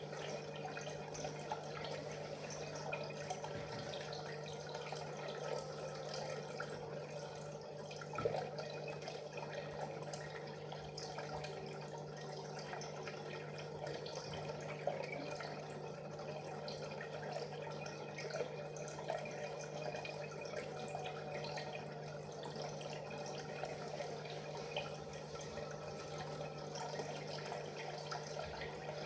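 Aquarium water trickling and bubbling steadily, with small drips over a constant low hum.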